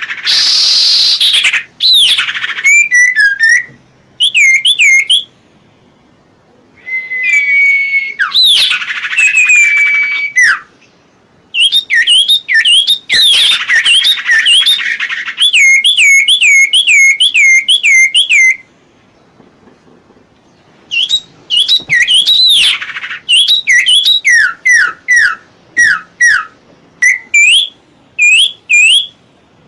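Songbird song from a masteran training recording: bouts of sharp, clear whistled notes that sweep up and down, about four to five a second, mixed with a few harsher rasping notes and broken by short pauses.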